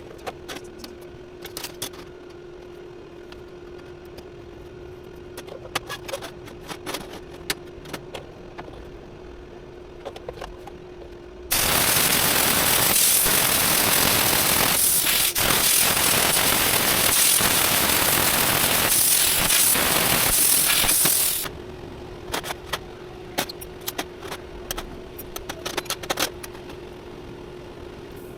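Light clicks and clinks over a steady hum, then a loud, even hiss from a shop tool that starts suddenly about a third of the way in and cuts off about ten seconds later.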